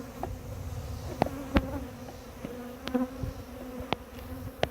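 Honeybees buzzing, a steady hum from a swarm of bees flying close around an opened hive. About five sharp knocks or clicks sound over it.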